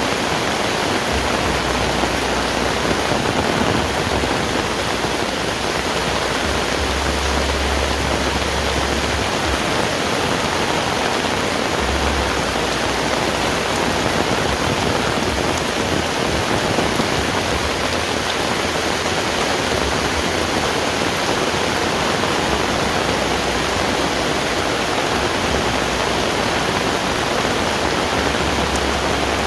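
Heavy rain falling steadily, a dense even hiss of rain with no let-up.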